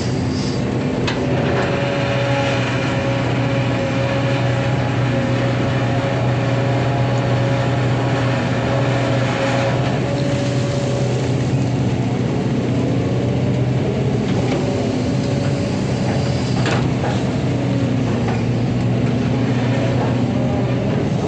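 Hydraulic excavator running steadily: a diesel engine drone with a whine from the hydraulics that rises and falls in pitch in the second half, and a sharp knock about a second in and another near the end.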